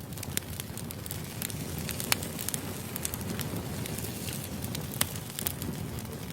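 Firewood burning, crackling with irregular sharp pops over a steady low rumble of the flames.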